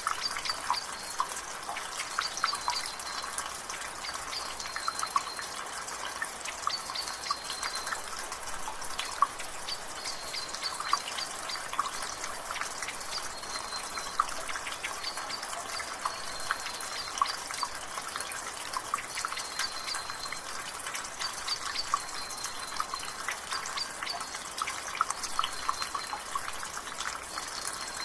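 Water dripping from a gutter over steady drizzle: many irregular drips and splashes on a light rain hiss. A bird repeats a short high call about every two and a half seconds.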